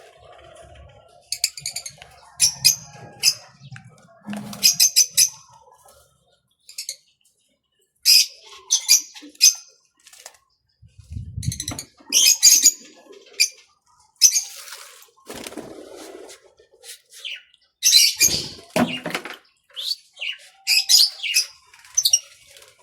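Birds bathing: repeated short flurries of wings beating and splashing in the water, several quick strokes at a time with pauses between.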